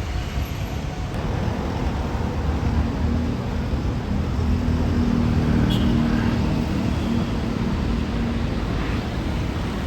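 Road traffic: vehicle engines and tyre noise, with one engine's hum coming up about four seconds in and easing off near the end.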